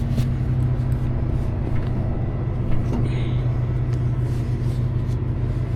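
Tow truck engine idling steadily, a low even hum, with a few faint clicks over it.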